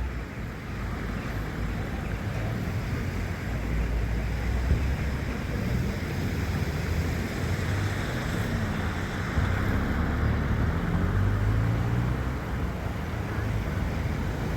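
Road traffic: car engines running with a low rumble. An engine note rises in pitch about halfway through, and again later, as a vehicle moves off.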